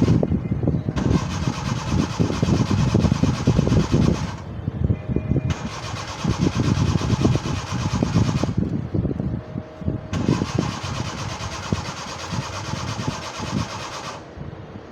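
Suzuki Mehran's three-cylinder carburetted petrol engine being cranked by its starter on a low battery: three long cranking attempts, each about three to four seconds, with short pauses between them.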